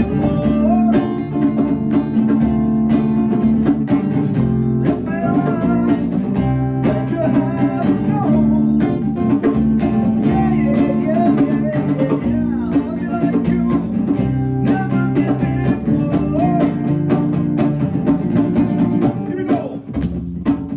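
Live band music: guitar chords over drums, with a melody line that bends in pitch above them, in a bluesy style.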